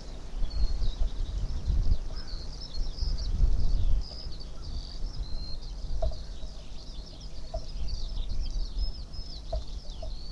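Small birds chirping and twittering continuously in quick, high-pitched notes, over a low uneven rumble that is heaviest in the first few seconds.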